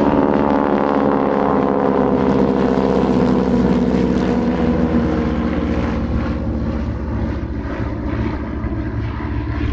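Propeller airplane flying past and away, its engine note sliding steadily lower in pitch as it slowly fades.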